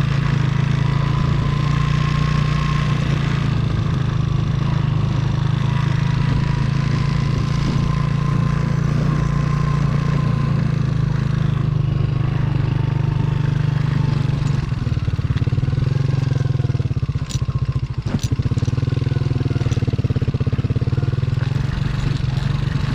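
Motorcycle engine running steadily while riding. It eases and wavers briefly about two-thirds of the way in, with a few sharp clicks.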